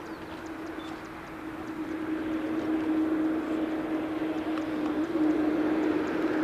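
Boeing 787-9 airliner's jet engines running with a steady whine over a rushing noise, growing louder as the aircraft draws closer.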